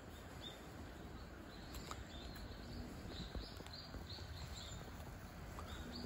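A small bird's short, high chirps, repeated a few times a second from about two seconds in, over a faint low steady rumble.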